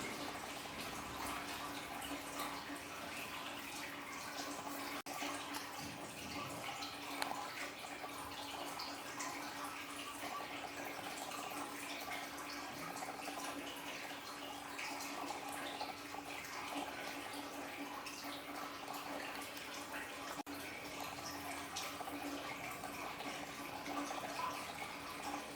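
Water splashing and trickling steadily in an aquarium waterfall, with a steady low hum beneath it.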